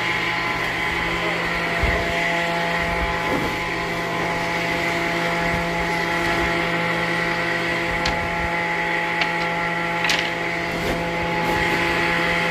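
Woodworking machine motor running steadily with an unchanging hum and no cut under way. A few short knocks or clicks come through, the sharpest about ten seconds in.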